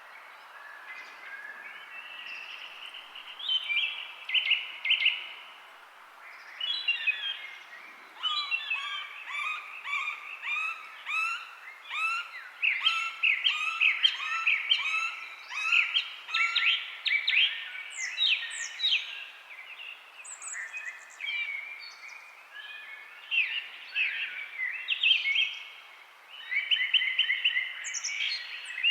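Several birds singing at once, among them northern cardinals: overlapping runs of repeated slurred whistles and chirps over a faint steady background hiss.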